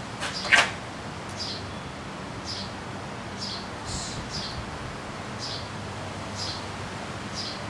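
A bird chirping over and over: short, high, falling chirps about once a second. A sharp knock about half a second in, from the engine being shifted against the bicycle frame.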